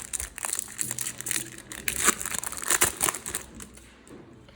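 Trading-card packet wrapper being torn open and crinkled in the hands, a dense crackling with sharp crackles that lasts about three seconds and then dies away.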